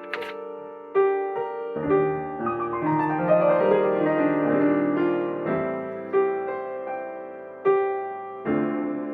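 Solo piano playing a slow, ambient original piece: chords struck about every second or two, each ringing and fading, with a spell of quicker notes in the middle. A brief click just after the start.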